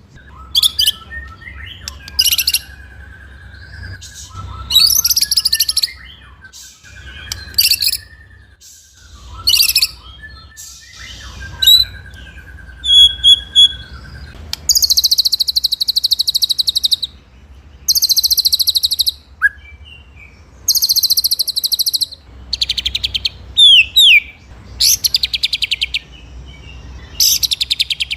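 White-rumped shama (murai batu) singing loud, varied song. Long rapid buzzy trills alternate with short sharp whistled notes and held lower whistles, in the rolling-and-shooting (ngeroll nembak) style. Near the end come quick falling whistles.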